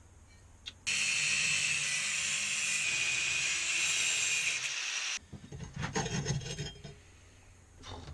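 A power tool cutting into a steel exhaust section to free the restrictive internal pipe, running steadily for about four seconds and stopping abruptly. Then metal clinks and rattles as the cut pieces are handled.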